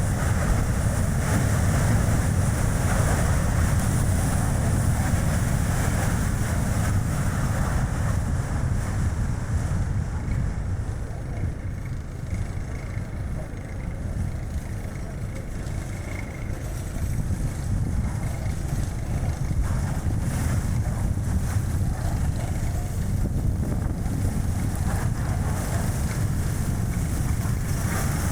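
Strong gusty wind buffeting the microphone over the steady road and tyre noise of a Chevrolet Spark city car driving. The deep rumble eases off for a few seconds about halfway through, then comes back.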